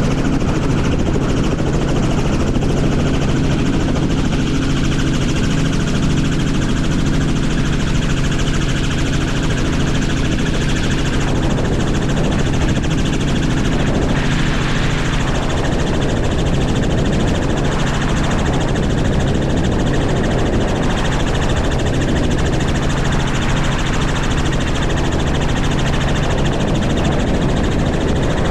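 Helicopter engine and rotor running, a loud, steady drone that holds one pitch throughout.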